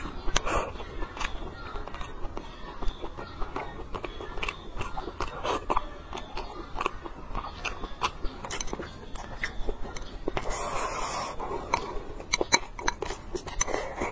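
Close-miked eating sounds of a mouthful of plain white rice being chewed, full of short, wet mouth clicks and smacks at an irregular pace.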